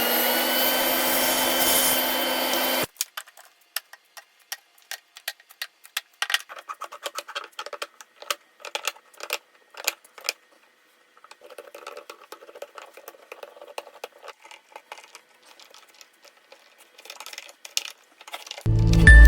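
An electric woodworking power tool runs at steady speed with a pitched hum, then cuts off suddenly about three seconds in. Scattered light clicks, taps and scraping of wood being worked follow.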